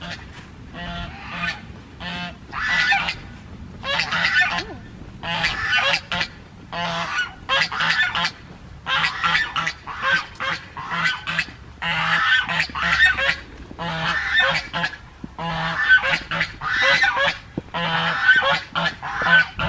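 A flock of farm waterfowl calling over and over, one call after another with short gaps.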